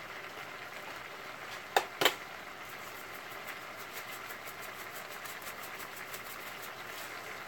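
Stir-fry of chicken, shrimp and peppers sizzling steadily in a wok. About two seconds in there are two sharp clicks, then a shaker of crushed red pepper is shaken over the pan in quick light ticks, about five a second.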